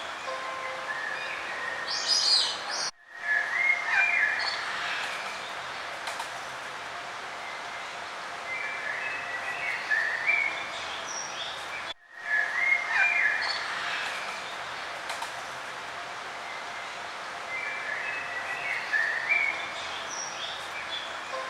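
Several songbirds singing and chirping, short calls and trills coming every second or two over a steady background hiss. The sound cuts out for a split second twice, about three seconds in and again about twelve seconds in.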